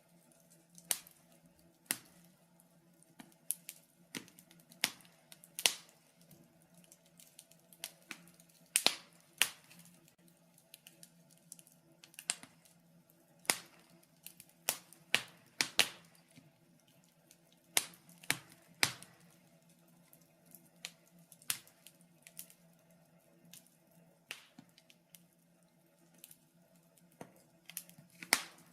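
Wood fire crackling in a fireplace: irregular sharp pops and snaps, about one or two a second and sometimes in quick clusters, over a faint steady low hum.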